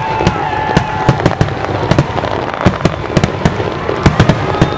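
Fireworks display: aerial shells bursting in a rapid string of sharp bangs, about three to four a second.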